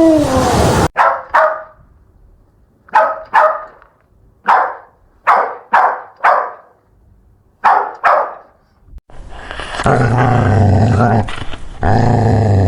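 Dogs barking: about ten short, sharp barks, mostly in quick pairs, with quiet gaps between. From about ten seconds in there is continuous low growling.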